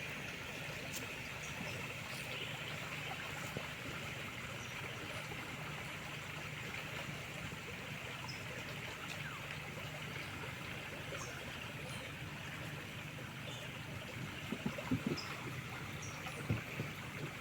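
Flowing river water, a steady rushing hiss, over a faint steady low hum. A few sharp knocks come near the end.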